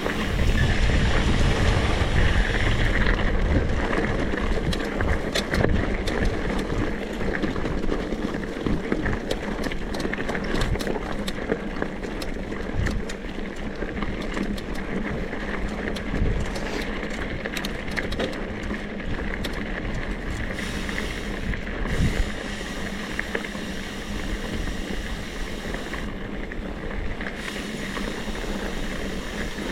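Mini motorcycle (monkey bike) being ridden, its engine running steadily under heavy wind noise on the microphone, with many small knocks and rattles from the ride.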